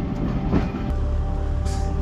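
Vintage passenger coaches rolling past, wheels clattering over the rail joints. About a second in, background music with a steady low beat takes over.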